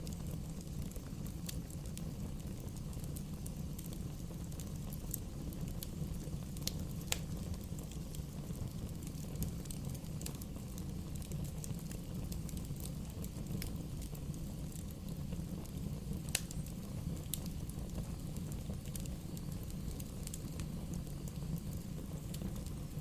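Wood fire burning: a steady low rumble with irregular sharp crackles and pops from the burning wood.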